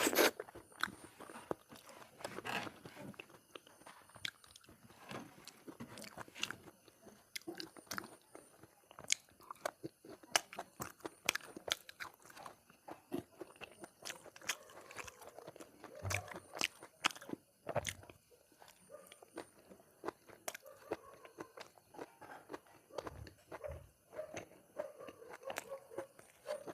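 A person eating close to the microphone: chewing and smacking, with many small, irregular clicks.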